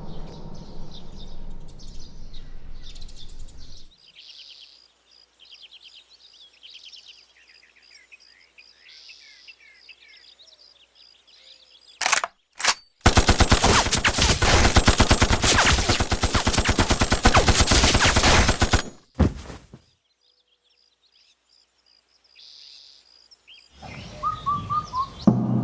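Birds chirping, then two gunshots, then a long burst of rapid automatic gunfire lasting about six seconds, ending with one more shot.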